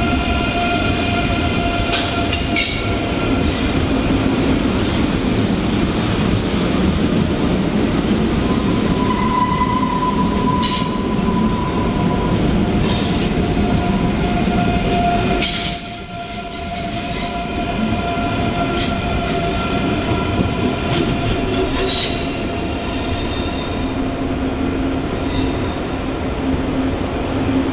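A train's wheels running on the rails with squealing: several thin, steady, high squealing tones over continuous wheel noise, with scattered sharp clicks. A very high squeal comes in briefly a little past halfway.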